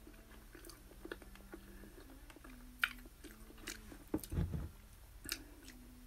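Faint close-up chewing and biting of food, with scattered small mouth clicks. A single louder low thump about four seconds in.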